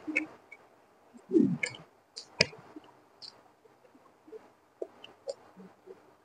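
Close-miked eating sounds of fried rice eaten by hand: scattered wet mouth clicks and lip smacks while chewing, with one sharper click about two and a half seconds in and a short low hum falling in pitch about a second and a half in.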